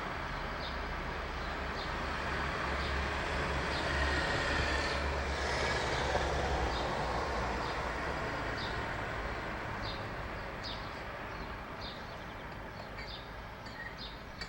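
Low rumble of passing traffic that swells about four to seven seconds in and then slowly fades. Over it, a bird repeats a short high chirp roughly every half second.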